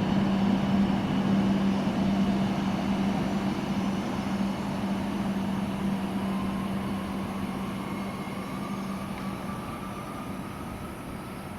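Shinkansen train pulling away: a steady rumble with a low hum slowly fading, while a faint motor whine rises in pitch in the second half as the train accelerates.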